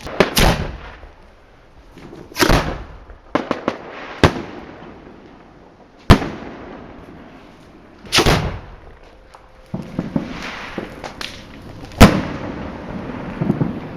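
Fireworks exploding overhead: about ten separate loud bangs and booms, some with a short rumbling tail and a few in quick clusters of cracks. The loudest, sharpest bang comes about twelve seconds in.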